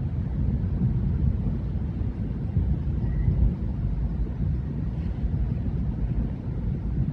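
Thousands of distant fireworks going off in every direction, their bangs blurring into one unending low rumble, like rolling thunder.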